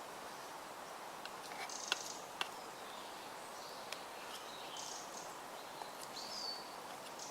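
Faint woodland ambience: a steady hiss with a few high bird chirps, one a short falling whistle near the end, and a handful of sharp clicks and ticks.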